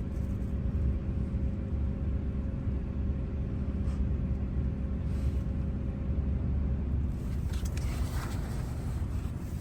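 A steady low mechanical rumble with a faint steady hum, which changes about seven seconds in; a few light clicks and rustles near the end.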